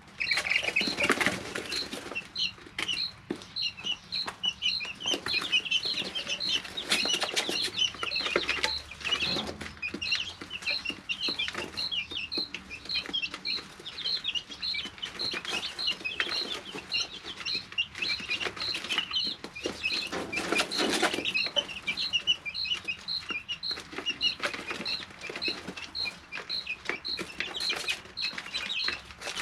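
Three-week-old chicks peeping and cheeping constantly in a brooder, one high peep repeating at an even pace among many overlapping chirps. Short bursts of rustling break in now and then, the clearest near the start and about two-thirds of the way through.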